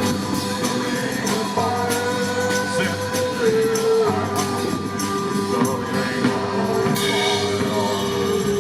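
Live band music with singing and a steady percussion beat; long notes are held through the second half, with a bright crash about seven seconds in.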